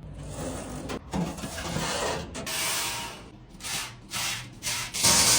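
Rasping, scraping strokes: a longer stretch of scraping, then a run of short strokes about two a second, the last near the end the loudest.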